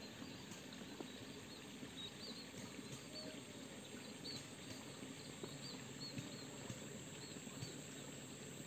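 Faint rural outdoor ambience with a small bird giving short, high chirps over and over for several seconds.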